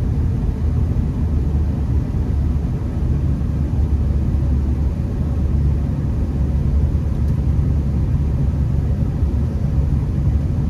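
Steady low rumble of a Honda Accord being driven on a snow-covered road, heard from inside the cabin: engine and road noise.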